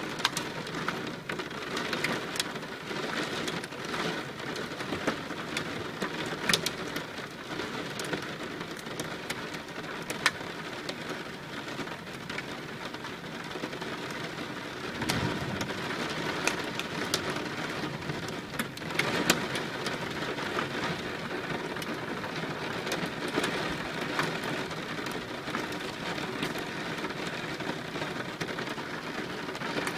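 Steady rain falling, with many separate raindrops ticking sharply on a nearby surface. A brief low rumble swells up about halfway through.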